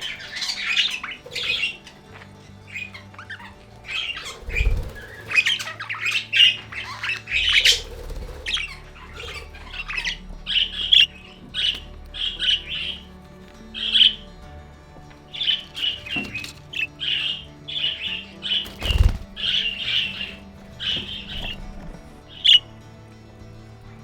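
Budgies chattering and squawking, a busy run of short sharp calls, over quiet background music. Two dull thuds come about five seconds in and near the end.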